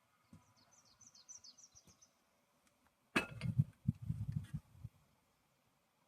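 A small bird sings a quick series of short, high, falling chirps. About three seconds in, a sudden knock is followed by about a second and a half of loud low rumbling noise.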